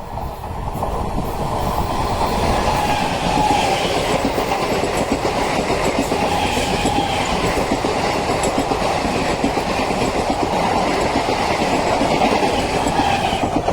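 Express train running past at speed, its wheels clattering over the rail joints; the noise builds over the first two seconds and then stays loud and steady.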